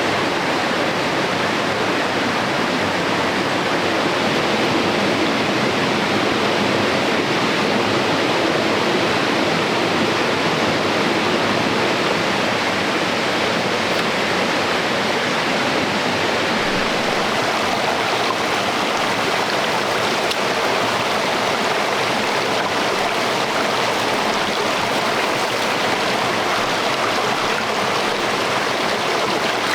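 A stream rushing steadily over rocks, an even, unbroken water noise.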